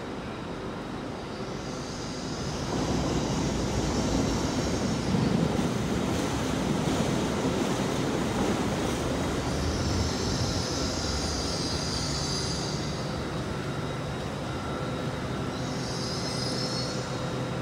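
A train moving along the track with its wheels squealing high-pitched three times: once near the start, once in the middle and once near the end. A low rumble under the squeal grows louder about three seconds in and holds steady.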